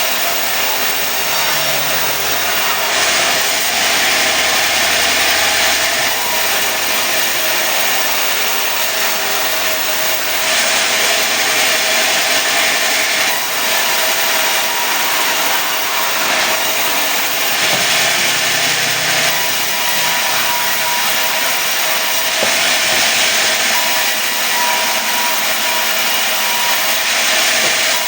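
Sawmill saw running and cutting mahogany into boards, the cutting noise swelling and turning harsher in four stretches of several seconds each.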